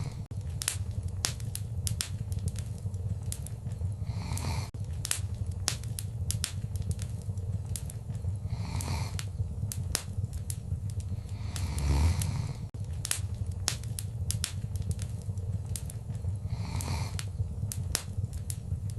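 Wood fire crackling in a fireplace: frequent sharp pops and snaps over a steady low rumble of flame, with a soft rushing swell every four seconds or so.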